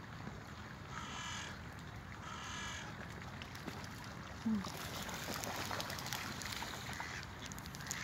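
Two harsh, drawn-out bird calls, about a second and a half apart, from a pond-side flock. About halfway through comes a short low thump, the loudest moment, followed by rustling and crackle.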